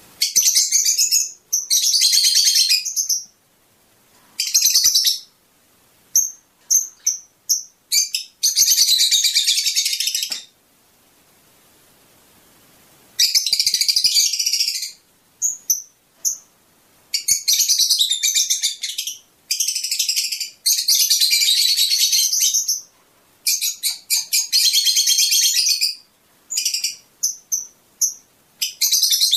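Fischer's lovebirds chattering in rapid, high-pitched chirps, in bursts of a second or two separated by short pauses, with a quieter gap of a few seconds about ten seconds in.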